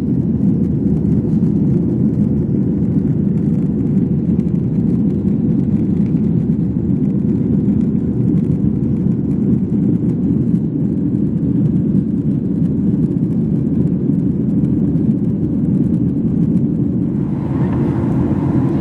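Airliner cabin noise: a steady, loud low rumble of the jet engines and airflow heard from a passenger seat, with a higher hiss joining near the end.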